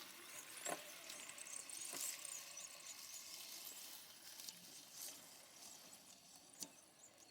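Faint outdoor background with a few soft, separate clicks and faint high-pitched chirping.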